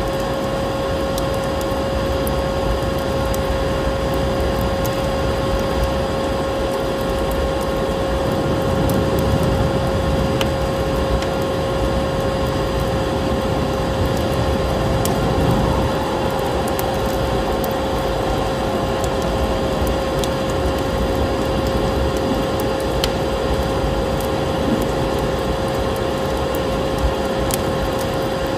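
Vacuum cleaner running steadily, a constant whine over its rushing drone, with scattered crackles and pops from a wood fire.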